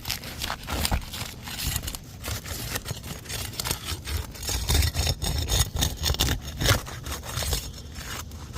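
Asphalt roof shingles being lifted and worked loose: irregular scraping and crackling with short knocks.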